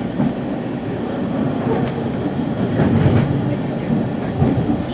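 West Coast Express commuter train running on the rails, a steady rumble with scattered clicks and rattles from the wheels and track, heard from on board.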